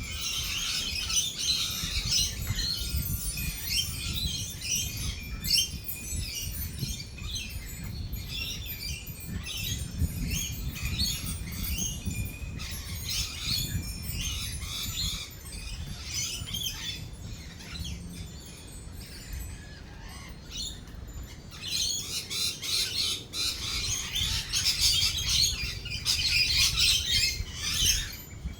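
A flock of lorikeets chattering and screeching, many short calls overlapping, busiest at the start and again in the last several seconds. A low rumble runs underneath.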